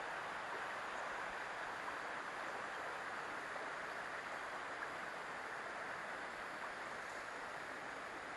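Steady, even rushing of river water.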